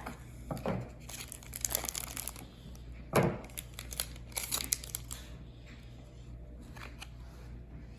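Wrapper of a baseball card pack crinkling and tearing open in irregular bursts, with scattered clicks and a brief thump as the cards are handled.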